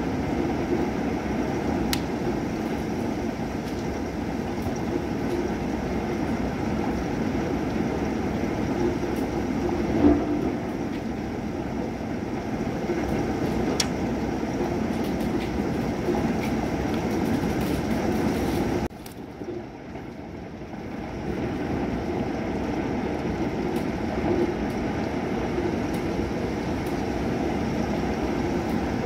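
Steady heavy thunderstorm rain with scattered sharp drip ticks and one louder tap about ten seconds in. The sound drops away suddenly for about two seconds, roughly two-thirds through, then comes back.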